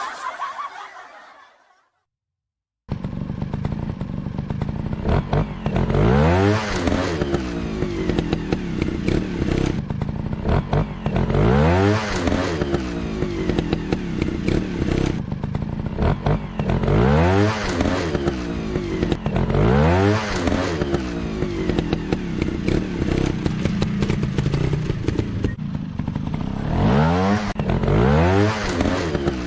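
Dirt bike engine running, starting about three seconds in after a brief silence, and revved again and again, its pitch climbing every few seconds.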